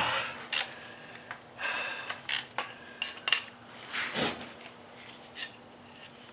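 Metal tools and engine parts clinking and clanking as they are handled, a series of sharp knocks, some with a short ringing tone.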